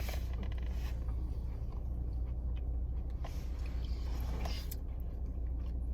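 Steady low rumble of a car's idling engine heard inside the cabin, with a few faint small clicks and rustles.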